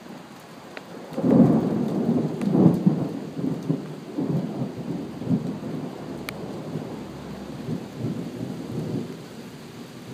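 Thunder rumbling: a loud rolling peal breaks about a second in and rumbles on, crackling and gradually fading over several seconds.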